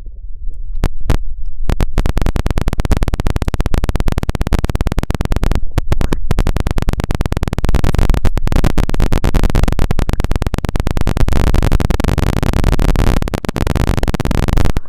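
Loud, dense electric-sounding crackle close on the microphone, a rapid unbroken stream of clicks like a lightning 'Chidori' effect, overloading the mic. It starts about a second in, breaks off briefly twice, and cuts off abruptly at the end.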